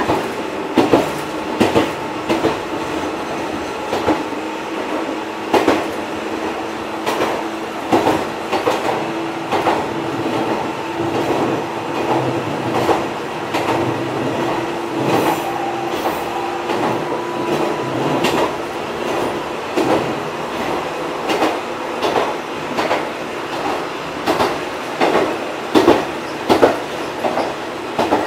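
Fukui Railway 200 series railcar 202-2 running, its wheels clacking over rail joints, often in quick pairs, over a steady hum that fades about two-thirds of the way through.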